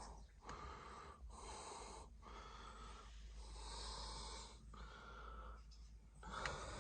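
Faint, close breathing by a person at the microphone, soft breaths in and out about a second each, over a low steady hum.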